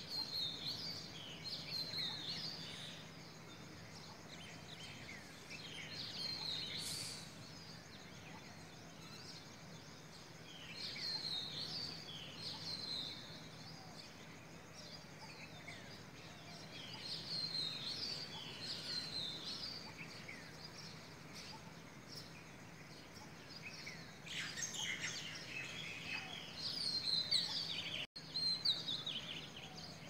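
Birds at dawn calling and singing in recurring bouts of quick chirping phrases, several at once near the end, over a faint steady low hum. The sound drops out briefly near the end.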